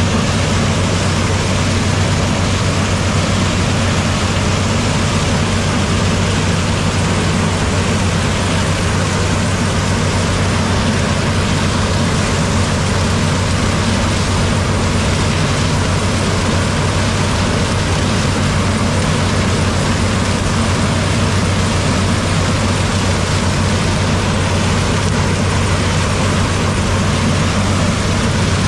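Combine harvester's diesel engine and working gear running steadily at constant speed, with a deep even hum and no change in pitch.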